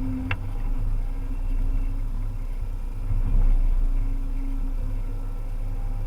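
Volvo EC300EL excavator running, its diesel engine and hydraulics giving a steady low rumble with a held hum, and one sharp click shortly after the start.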